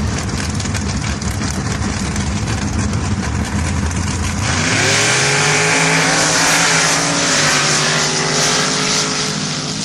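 Drag-racing truck engines rumbling at the starting line, then launching about four and a half seconds in: the engine pitch climbs quickly as they run hard down the sand drag strip, with a loud hiss over the engines. The sound begins to fade near the end.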